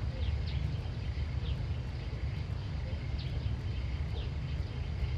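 Short, falling bird chirps repeating irregularly over a steady low rumble.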